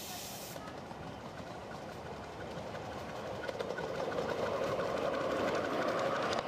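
Miniature railway train approaching, growing steadily louder, with its wheels clicking over the track. A hiss cuts off abruptly about half a second in.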